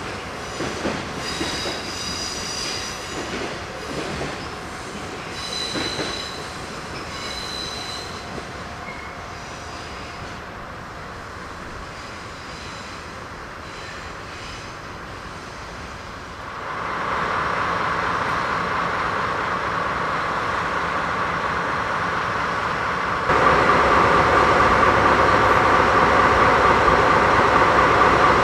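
Empty cement wagons of a freight train rolling on the rails, with high wheel squeal and clicking over rail joints during the first several seconds. About two-thirds of the way in a louder steady rushing noise builds, and it jumps up abruptly near the end.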